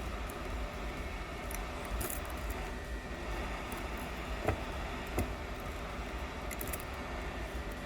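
Steady blowing fan noise from bench equipment, with two light clicks about four and a half and five seconds in.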